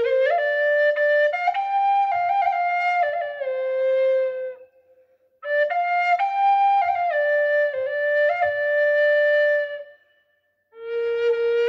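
Solo flute playing a slow melody of held and stepping notes, in phrases of about five seconds with short breaks for breath: one about halfway through and one near the end, after which a new phrase begins.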